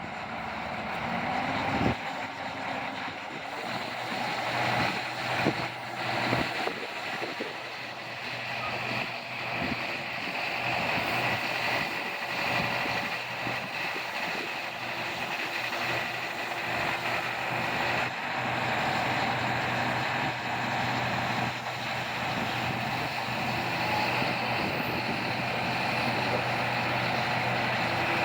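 Diesel engine of a Hitachi ZX250LC-6 crawler excavator running steadily, with wind on the microphone. A few sharp knocks come in the first several seconds.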